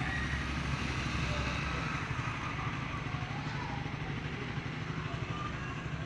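Outdoor background ambience: a steady low rumble, with faint short calls or distant voices drifting over it now and then.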